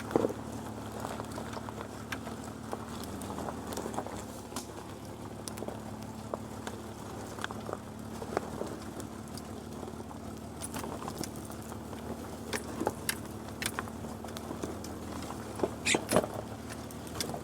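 Jeep engine running steadily at low revs, with scattered knocks and rattles and a cluster of sharper knocks near the end.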